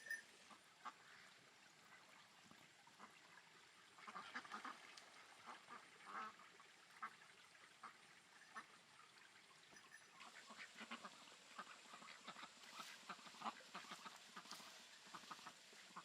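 Ducks quacking faintly in short, irregular calls, more often from about four seconds in.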